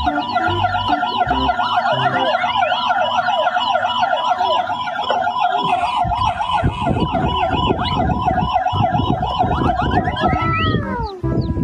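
Emergency-vehicle siren in a fast warble, with a low rumbling joining about halfway through. Near the end the siren's pitch falls away as it winds down.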